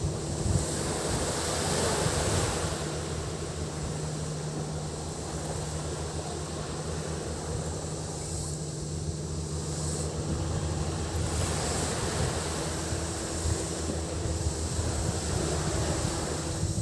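Surf washing onto a beach, the wash swelling and fading every few seconds, with a steady high cicada buzz and a low motor hum underneath.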